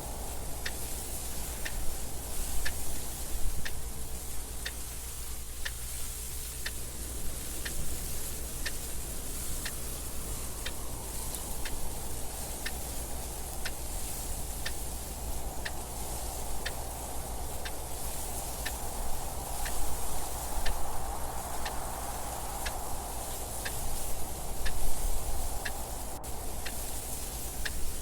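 A clock ticking steadily and evenly, over a soft wind noise that slowly swells and fades.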